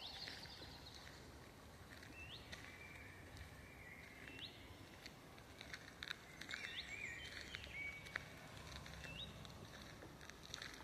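Forest birds calling: one repeats a short upward-sweeping note about every two seconds, and a cluster of chirps and warbles comes in the middle. Faint footsteps crackle on the forest floor beneath.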